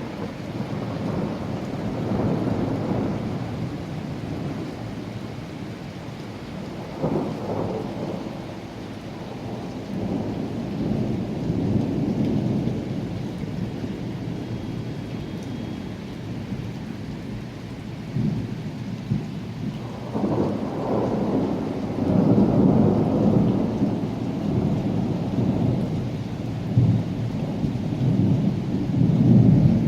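Rain falling with repeated low rolls of thunder, which swell and fade several times and are loudest in the second half.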